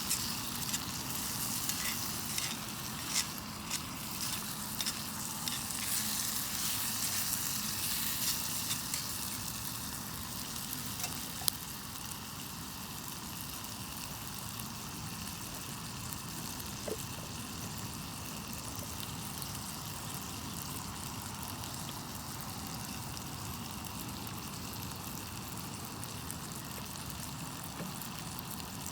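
Food sizzling in a frying pan over a campfire, with scattered pops. The sizzle is louder for the first ten seconds or so, then settles to a steadier, softer sizzle, with one sharp click about eleven seconds in.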